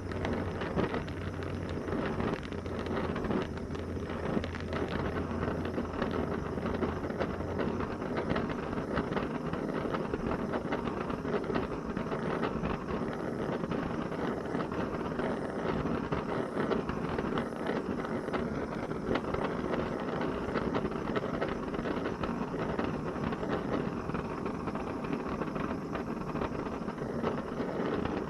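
Gas torch flame rushing steadily while it heats a hardened steel punch to draw its temper. A low hum underneath stops about nine seconds in.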